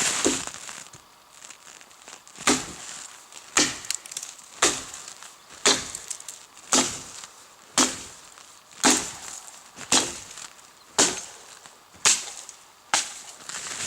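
Axe chopping firewood: eleven sharp, evenly spaced blows about a second apart, starting a couple of seconds in.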